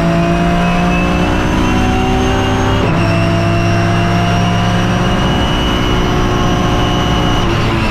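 BMW E36 M3 race car's S54 straight-six engine under hard acceleration, its pitch climbing steadily. It drops sharply twice, about three seconds in and near the end, as the sequential gearbox shifts up.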